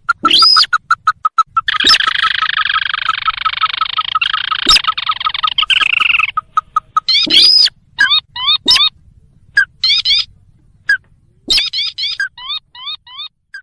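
Recorded calls of the sintar, a crake, played as a bird-trapping lure: a fast series of short pips, then a dense buzzing trill lasting about four seconds, then sharp loud notes and runs of quick sliding call notes.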